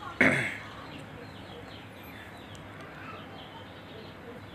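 Birds chirping steadily in the background, with a brief loud sound a fraction of a second in.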